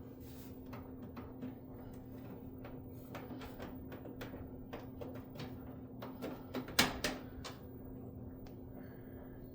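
Washing machine running its wash cycle: a steady motor hum with scattered light clicks and knocks, a louder cluster of them about seven seconds in.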